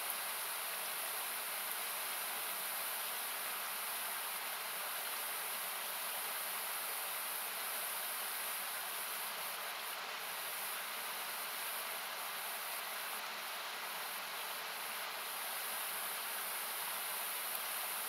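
Steady rushing noise of a river close by, its low end cut away by equalisation so it sounds thin and hissy. A few faint crackles of the wood campfire come through about halfway.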